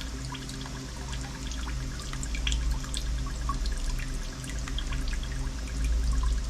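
Diesel fuel trickling and dripping out of a removed fuel filter into a container, with many small irregular drips. A steady low hum runs underneath.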